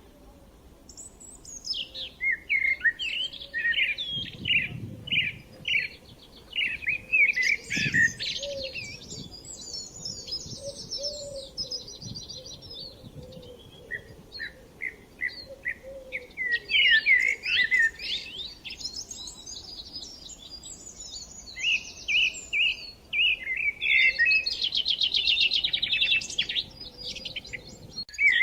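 Songbirds singing: phrases of quick, high chirps and fast trills, one after another with short pauses between them.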